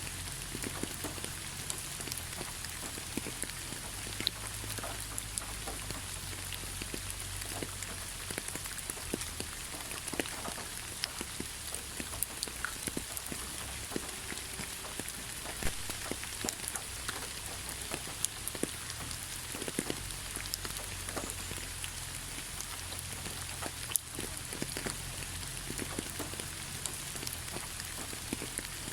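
Heavy rain falling steadily: a dense, even hiss scattered with many sharp ticks of single drops striking.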